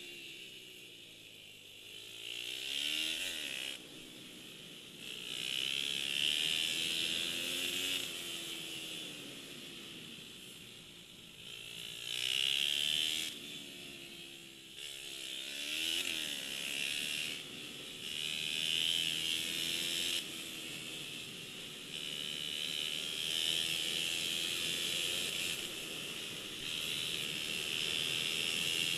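190cc pit-bike engines riding a track, revving up and dropping back again and again as the bikes accelerate, shift and pass, the sound swelling and fading in waves.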